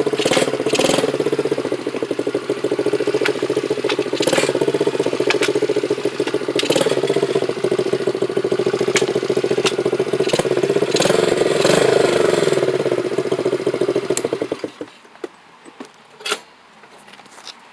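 Dirt bike engine running steadily, revving up briefly about two-thirds of the way in, then cutting off suddenly near the end; a light click follows.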